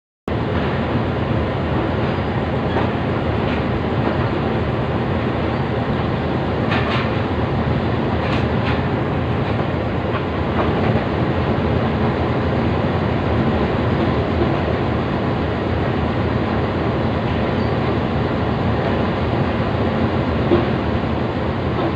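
Pakistan Railways passenger coaches rolling along the rails, heard from aboard the train: a steady rumble and clatter of wheels and running gear. There are a couple of sharp clanks about seven and eight seconds in.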